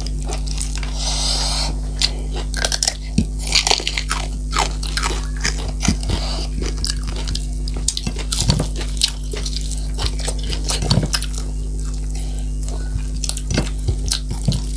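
Close-miked eating sounds: a person chewing and smacking mouthfuls of food, with many short, irregular clicks and smacks. A steady low hum runs underneath.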